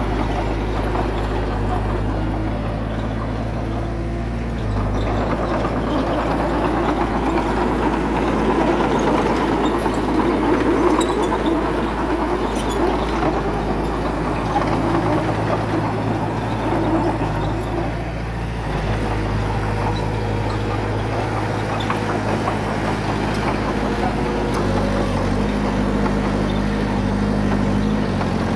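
Heavy diesel engine of a bulldozer running steadily. It turns louder and rougher from about five seconds in until about eighteen seconds, then settles back.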